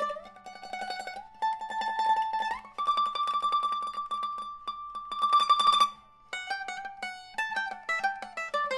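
Mandolin-like plucked string instrument played with rapid tremolo picking. Its held notes step upward, it breaks off briefly around six seconds in, and then it plays a descending run of short notes.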